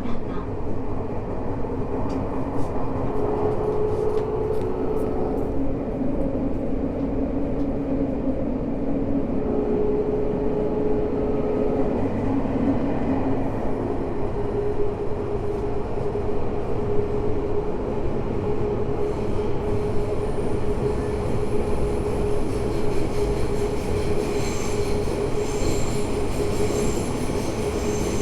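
Tokyo Metro 05 series subway car running through the tunnel, heard from inside: steady wheel-on-rail running noise with the steady tones of its Mitsubishi IGBT inverter drive. A single tone settles in about halfway through, and faint high-pitched tones join in the last third.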